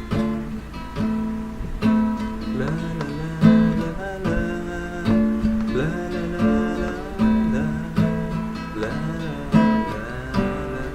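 Acoustic guitar playing the instrumental intro of a song, strummed chords mixed with plucked notes in a steady rhythm.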